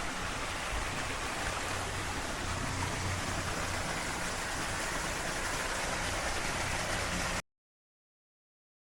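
Running water, a steady even hiss that cuts off suddenly to silence about seven seconds in.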